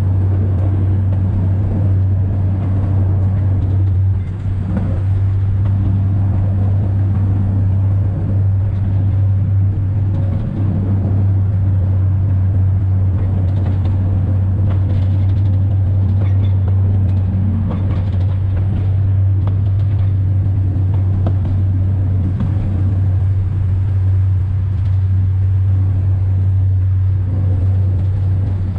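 Alishan Forest Railway diesel-hauled train running, heard from the driver's cab: a steady, loud, low engine drone over the rumble of wheels on the track.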